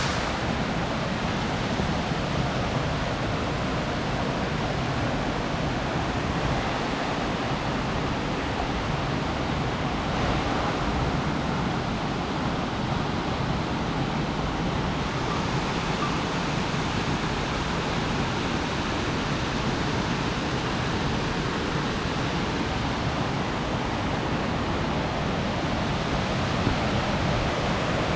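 Steady rushing of a three-tiered mountain waterfall, water pouring and splashing without a break.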